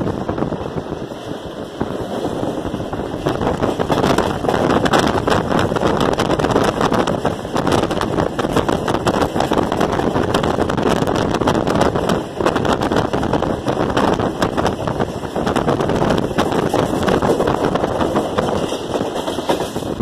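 Passenger train running at speed, heard from a coach window: a steady rumble and clatter of wheels on the track mixed with rushing wind. It grows louder a few seconds in.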